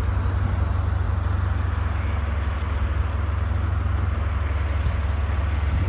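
A vehicle engine idling steadily, low-pitched and even.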